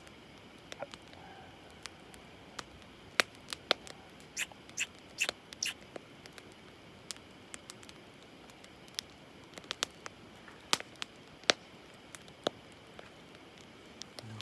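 Wood campfire crackling: irregular sharp pops and snaps, a handful of them louder, over a faint steady hiss.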